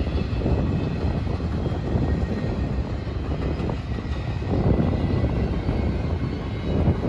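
Double-stack container well cars of a freight train rolling past: a steady rumble of steel wheels on rail, with rapid small clicks and faint high steady ringing tones over it.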